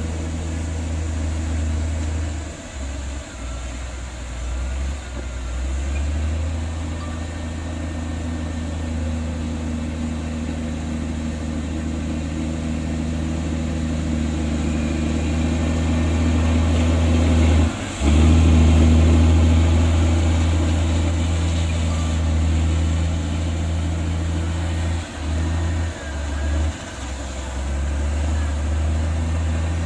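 Heavy construction machine's diesel engine running with a steady low drone. It drops out briefly a few times, and after the dip about eighteen seconds in it comes back louder, as under heavier load.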